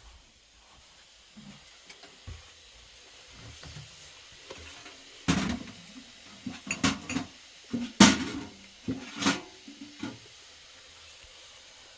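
A series of clattering knocks of hard objects handled and set down, loudest about five and eight seconds in, with lighter clicks between.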